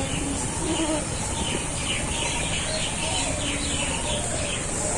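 Small birds chirping in short, quickly repeated notes from the trees, over a steady background hiss.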